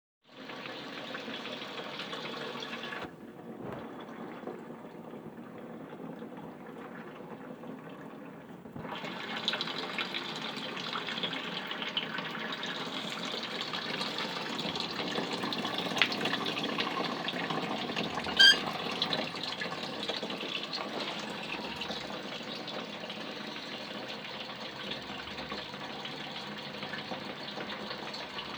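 Homemade Stirling hot-air engine, built from a 37 cc brushcutter cylinder with a 2 kg flywheel, running with a steady hissing clatter. It gets louder about nine seconds in, and there is a single sharp click a little past halfway.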